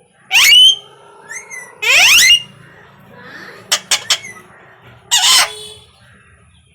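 Pet parrot calling: two loud rising calls in the first two seconds or so, a few sharp clicks near the middle, and a harsh screech a little after five seconds.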